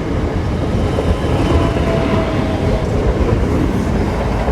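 Class 465 Networker electric multiple unit pulling out of the station: a loud, steady sound of wheels on rail and traction motors, with a faint whine for a second or so in the middle.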